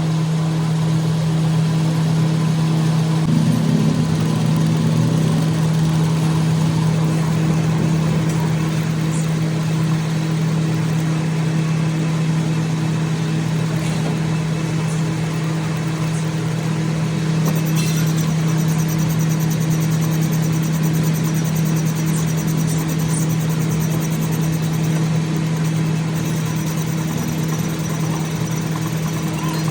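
Car engine idling steadily, with an unchanging low hum and a few faint ticks.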